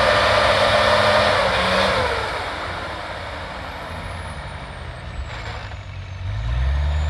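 Motocross bike engine running at high revs with a steady pitch, then dropping in pitch and fading about two seconds in. Near the end a lower engine note rises in pitch and grows louder.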